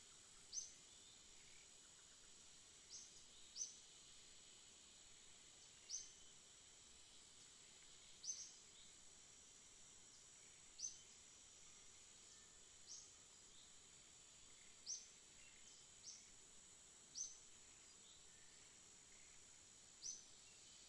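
A bird giving single short, high chirps, about a dozen of them spaced irregularly one to three seconds apart, over a steady high hiss.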